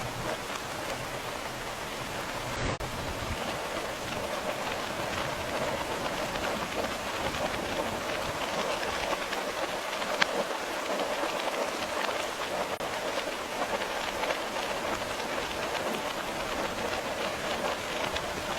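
Steady rain falling, a dense even hiss with many individual drops heard in it, and one sharp drip-like click about halfway through.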